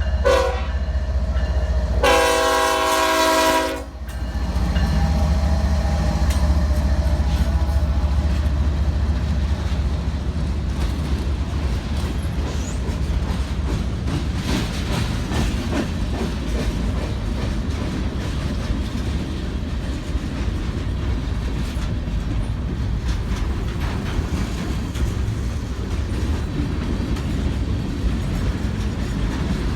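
Freight train passing, its locomotive air horn sounding a short blast at the start and a louder chord for about two seconds soon after, then the steady rumble of the train with the clickety-clack of wheels over rail joints.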